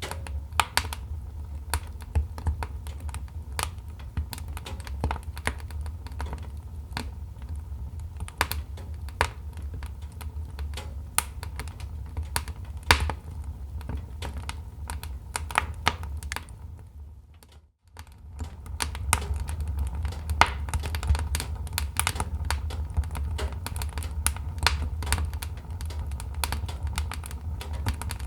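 Wood fire crackling: irregular sharp snaps and pops over a steady low rumble. The sound briefly fades almost to nothing about two-thirds of the way in, then comes back.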